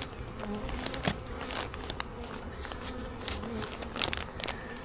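Honeybees buzzing in flight around an open-air hive, a steady hum, with scattered light clicks and taps throughout.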